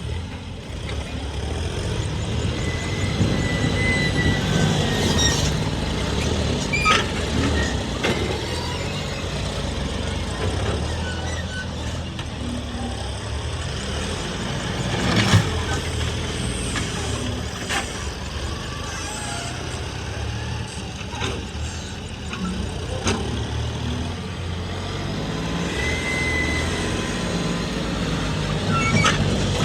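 Heavy diesel engine running steadily under working load, with a handful of sharp metallic clanks and knocks and two brief high-pitched tones.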